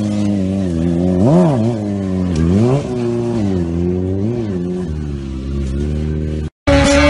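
Motorcycle engine running and revving, with two quick throttle blips where the pitch jumps up and falls back, about one and a half and two and a half seconds in. After a brief dropout near the end, a different steady engine-like drone takes over.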